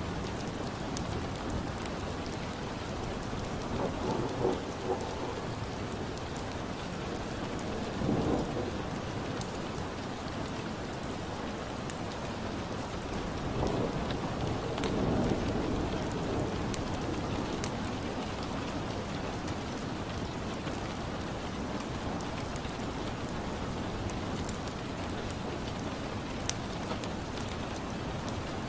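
Steady rain falling, with a few low swelling rumbles of distant thunder about 4, 8 and 15 seconds in.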